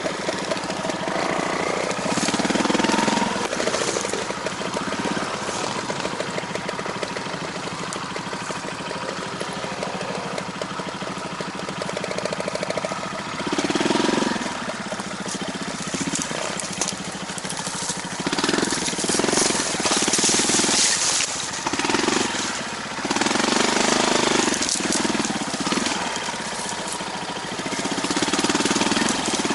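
A small vehicle engine running steadily with a fast even beat, rising in several louder surges as it is given throttle.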